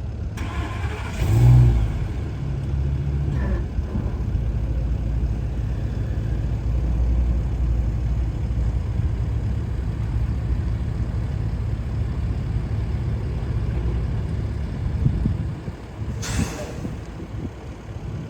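2008 Ford F450 Super Duty truck's engine: a loud surge about a second in, then a steady idle. Near the end the engine drops away and there is a short rush of noise.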